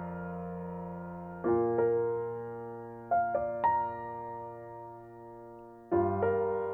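Soft background piano music: slow chords struck and left to ring out, with new chords about a second and a half in, around three seconds in, and near the end.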